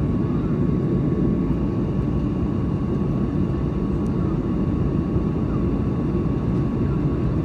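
Steady in-flight cabin noise of a Boeing 737-900, the rush of its CFM56 jet engines and airflow heard from inside the cabin, with a thin steady whine over it.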